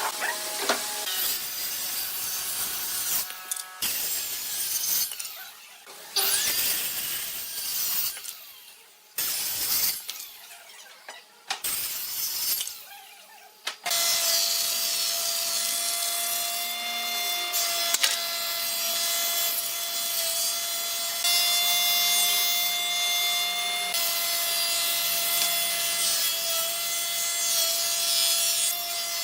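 Woodworking tools cutting and rubbing on wood in short edited bursts. From about halfway on, an electric power tool's motor runs with a steady whine as it cuts wood.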